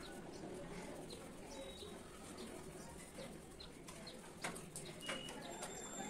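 Faint birds in the background, with a few short high chirps and pigeon-like cooing over low steady room noise.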